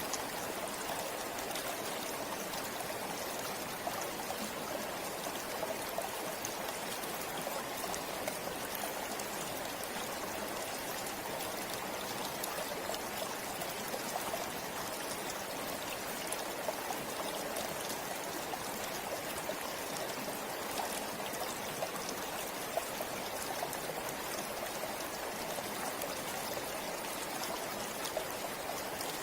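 Forest river flowing steadily: a constant rush of water with small splashes and trickles through it.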